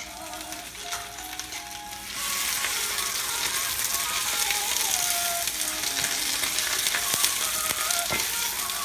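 Fresh spinach leaves sizzling in a hot skillet: the sizzle jumps up about two seconds in as the leaves hit the oiled pan, then keeps going while they are turned with metal tongs.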